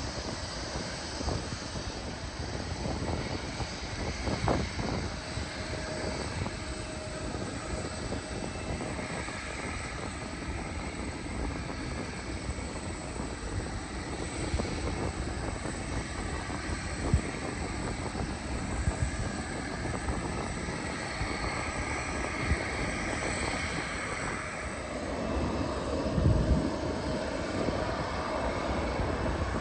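Jet airliner's engines on approach to land: a steady rumble, with a faint whine that swells about two-thirds of the way through.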